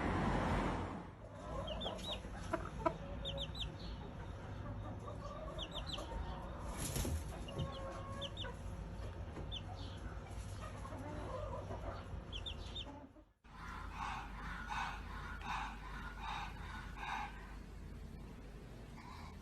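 Bird calls: short, high chirps in quick clusters over a steady low background hum. After a sudden cut about two-thirds of the way in, a run of repeated calls comes about three times a second.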